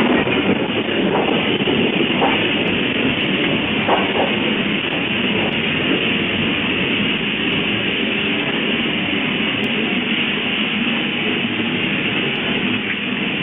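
Earthquake shaking: a steady, loud rumble and rattle of a building and its contents shaking, with a few faint knocks over it.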